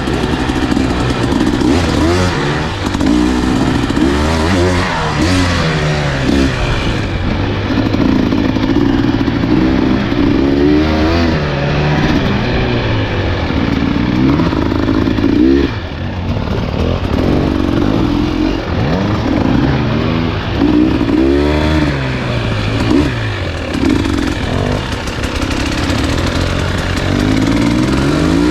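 Dirt bike engine under way on a trail, the throttle opening and closing so its pitch rises and falls every second or two, with rattle and noise from the ride underneath.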